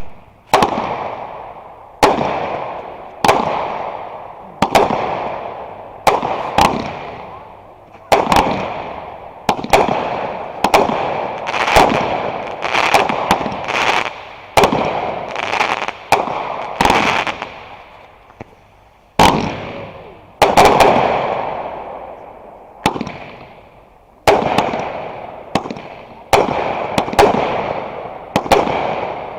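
Fireworks going off in quick succession: about twenty-five sharp bangs, roughly one every second or so, each trailing off in a fading echo, with a short lull just past the middle.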